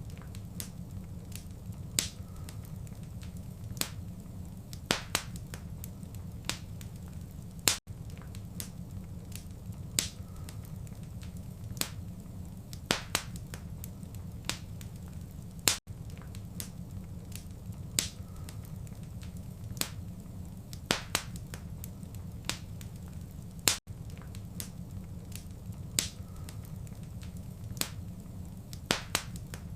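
Fireplace fire crackling, with irregular sharp pops and snaps over a steady low rumble of burning. A brief dropout about every eight seconds marks where the short recording loops.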